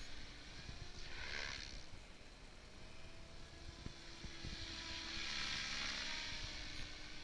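Radio-controlled Goblin 700 helicopter in flight. Its rotor swish and motor whine swell and fade as it passes, briefly about a second in and more strongly from about five to six and a half seconds in.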